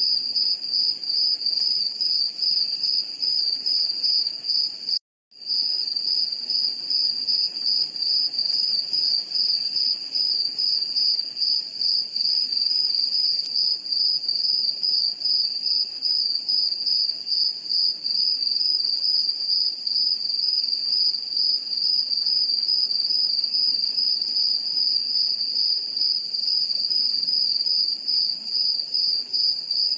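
Insects trilling continuously, cricket-like, on one high, even pitch with a rapid pulse. About five seconds in, the sound cuts out completely for a moment.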